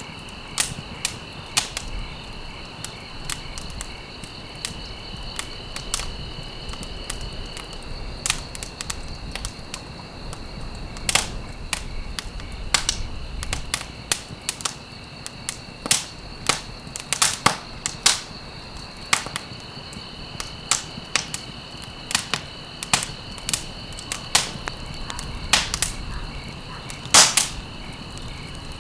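Wood fire crackling in a fireplace: irregular sharp pops and snaps, sometimes several close together, over a steady soft rush of burning logs, with one especially loud pop near the end.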